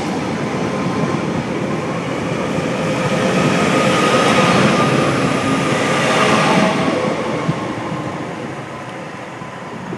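Multiple-unit passenger train running past along the platform, a steady rumble and rush of wheels on rail. It swells to its loudest about four to six seconds in as the last carriages go by, then fades as the train moves away.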